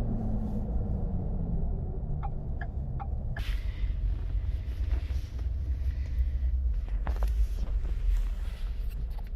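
Ford F-150's 5.0 V8 heard from inside the cab as the truck slows after a hard pull, its engine note falling and then settling into a low steady rumble. A few evenly spaced ticks about two seconds in, with scattered knocks and rattles in the cab later on.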